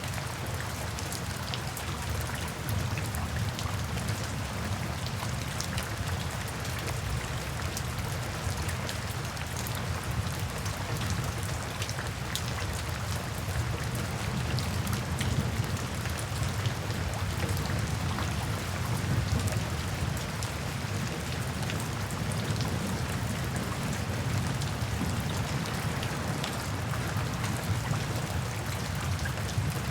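Steady rain falling in a forest, with many individual drops pattering on leaves and a low rumble underneath.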